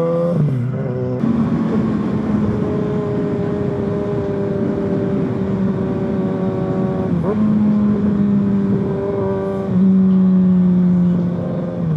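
Kawasaki Ninja ZX-6R's inline-four engine running steadily under way. Its note drops briefly near the start, then holds and changes pitch suddenly a few times later on.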